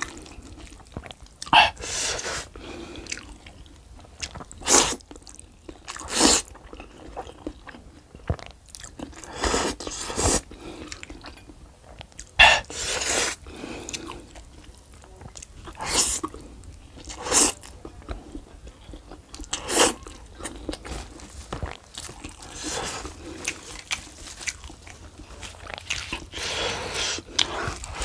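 Close-miked chewing and smacking of a mouthful of noodles and rice, eaten by hand, in irregular bursts every second or two.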